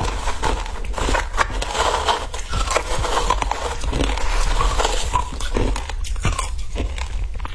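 Frozen ice being bitten and crunched in the mouth, a dense, continuous run of crackling crunches and chews.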